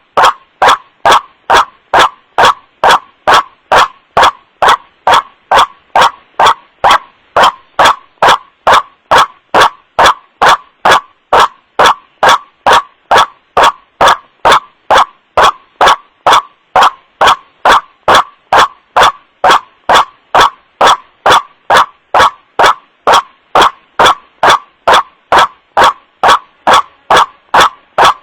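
White-breasted waterhen's 'wak-wak' call, a recording used as a trapping lure, repeating evenly about twice a second. Each call is very loud and clipped.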